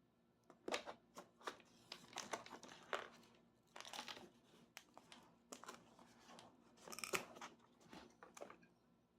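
Packaging being handled and opened by hand: a run of rustling, crinkling and tearing of wrapping, with sharp clicks and taps scattered through it.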